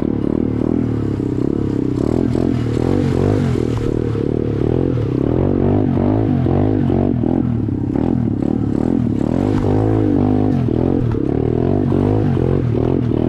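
SSR 125 dirt bike's single-cylinder four-stroke engine revving up and down again and again in quick bursts of throttle, as the bike works through deep mud and water.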